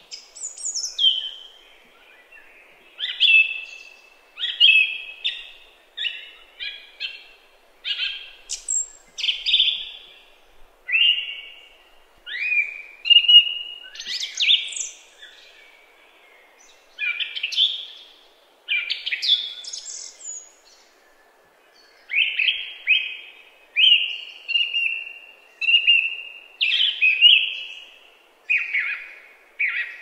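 A songbird singing a run of short, clear phrases of high sweeping and steady whistled notes, about one phrase a second with brief pauses between them.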